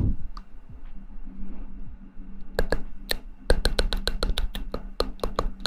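A quick, irregular series of light clicks or taps beginning about two and a half seconds in, over a low steady hum.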